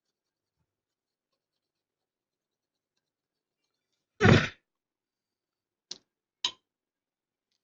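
Silence broken by one short scraping handling noise about four seconds in, then two short sharp clicks half a second apart, typical of tools being handled on a workbench.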